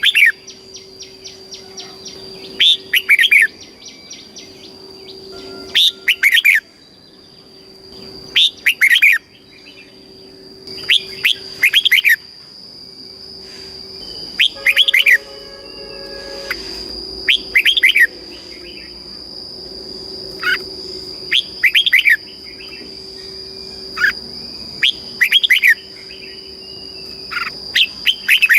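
Red-whiskered bulbul singing loud, short warbled phrases over and over, about one phrase every two to three seconds.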